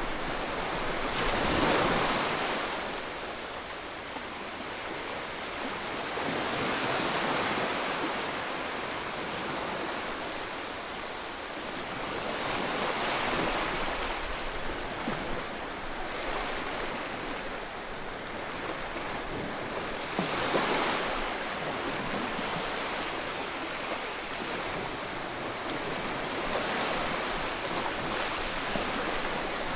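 Sea waves breaking and washing up the shore, the surf swelling and fading every five to seven seconds, loudest about two seconds in and again about twenty seconds in.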